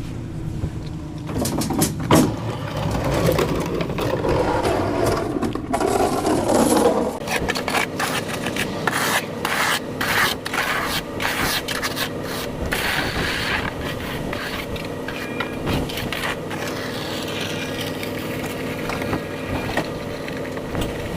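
Snow being scraped off pavement in a run of repeated strokes, over a steady engine hum.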